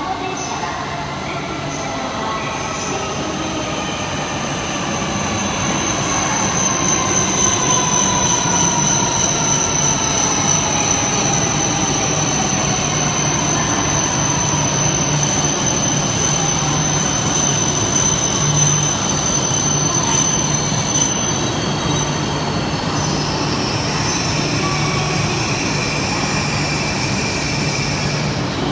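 E6-series Komachi Shinkansen train pulling slowly into an underground platform. Its motor whine falls in pitch as it brakes, over a steady rumble of wheels on rail. A high, steady wheel squeal rings out from a few seconds in and stops a little after two-thirds of the way through.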